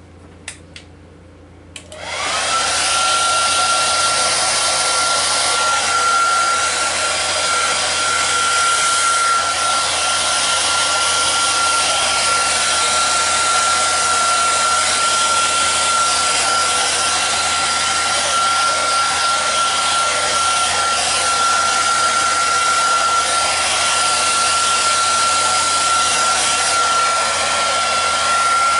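Handheld electric hot-air blower switched on about two seconds in: its motor spins up to a steady whine over a loud rush of air and keeps running. It is being used on wet poured acrylic paint to pop the surface bubbles.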